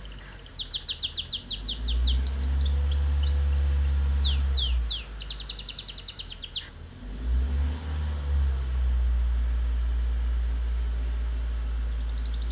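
A songbird chirping in rapid trills and quick down-sweeping whistles for about the first six seconds, over a steady low rumble that dips briefly in the middle and then holds.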